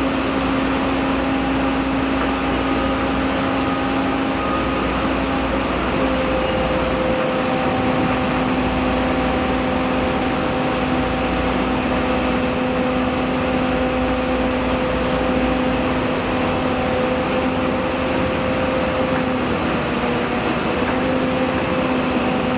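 A machine engine running steadily, a constant drone with a hum of fixed pitch that shifts slightly about six seconds in and again near the end.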